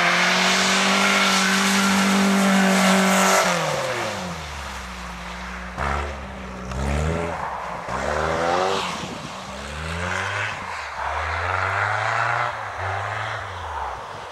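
Engine of a cut-down Opel Omega special held at high revs for about three and a half seconds, then dropping off. It then revs up and down several times in rising and falling sweeps, growing quieter as the car drives away over the snow.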